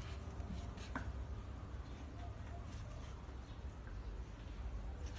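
Quiet room noise with a steady low rumble and a faint soft knock about a second in.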